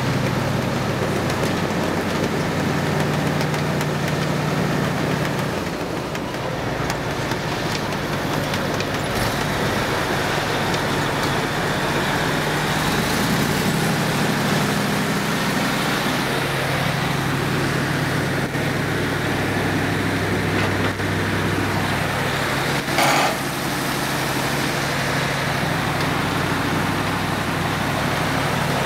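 Wirtgen W 1500 cold milling machine's 340 kW diesel engine running steadily, its pitch stepping up and down a few times. A brief loud noise comes about three-quarters of the way through.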